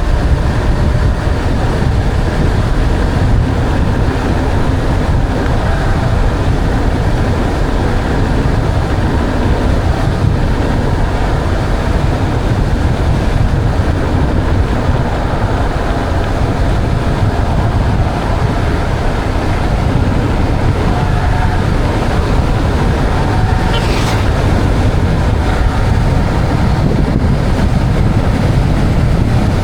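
Wind buffeting a helmet or action-camera microphone while riding a mountain bike: a loud, steady low rumble without a break.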